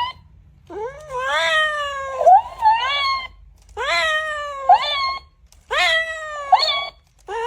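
A cat meowing loudly and repeatedly: drawn-out yowling calls that rise and then fall in pitch, each followed by a shorter meow, about three times over.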